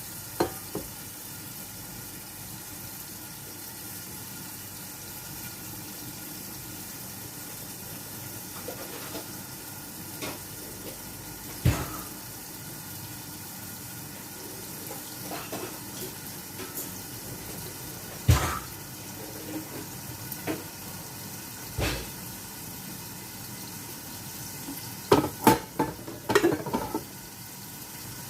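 Kitchen work sounds: a steady hiss with scattered sharp knocks and clatters of cookware or utensils, the busiest burst of them near the end.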